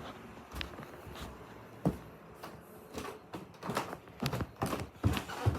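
Scattered light knocks and clicks, sparse at first and more frequent in the last two seconds, like footsteps and handling noise from someone moving about.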